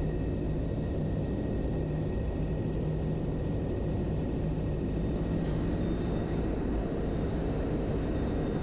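A motorcycle engine running with a steady low drone and a faint steady high tone above it.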